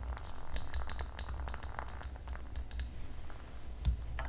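Quick, light clicks and taps from small objects being handled close to the microphone, scattered irregularly, with one dull thump near the end and a low steady hum underneath.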